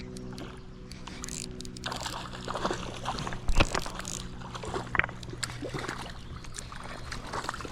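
Small water splashes, rustling and scattered clicks and knocks as a hooked smallmouth bass is fought and brought in on an ultralight finesse rod. A steady low hum runs for the first two seconds and then stops.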